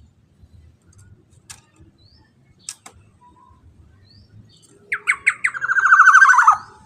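Black-naped oriole (kepodang emas) calling: a few sharp notes about five seconds in, then one long buzzy, rapidly pulsed call that stops near the end.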